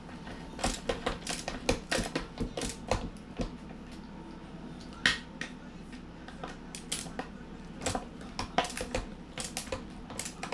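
Skate tool tightening the nuts while a skateboard's trucks and wheels are mounted, making short runs of quick metallic clicks.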